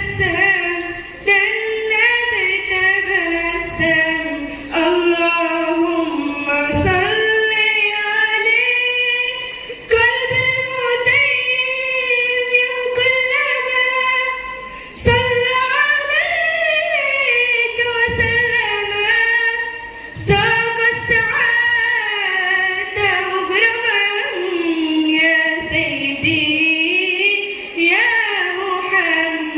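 A schoolgirl's solo voice singing an Arabic nasheed in praise of the Prophet, with long held notes and ornamented melodic turns. Short low thumps are heard here and there.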